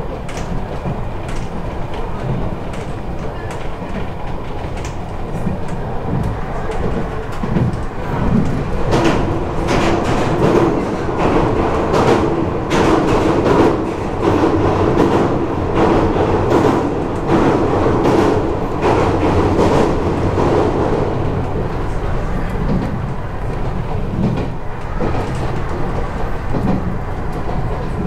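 Iyotetsu Gunchū Line electric train running, heard from behind the driver's cab: wheels clicking over rail joints. A louder rumble comes in for about twelve seconds in the middle as the train crosses a steel girder bridge.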